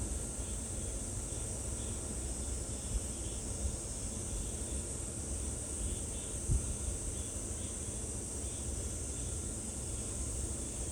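A steady, high-pitched drone of insects singing, with faint chirps and a low rumble of wind on the microphone and a brief bump about six and a half seconds in.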